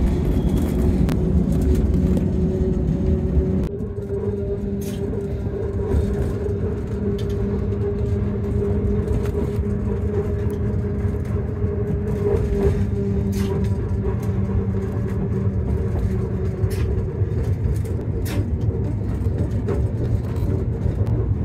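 Yellow Train, a metre-gauge electric railway, running along the line as heard from inside a carriage. A steady low rumble carries a steady motor hum, with a few scattered clicks, and the sound drops slightly about four seconds in.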